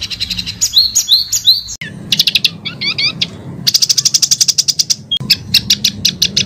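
Recorded songbird tutor song: sharp, high chirps and upward-sweeping notes, then a fast rolling trill of repeated notes at about a dozen a second, followed by more separate sharp chirps. The background changes abruptly a little under two seconds in, where one recording is spliced onto another.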